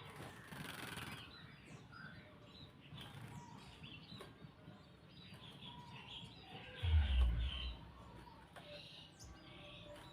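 Grey-cheeked bulbul (cucak jenggot) flapping its wings and giving short chirps as it is bathed, with a burst of flapping in the first second. A low thump about seven seconds in is the loudest sound.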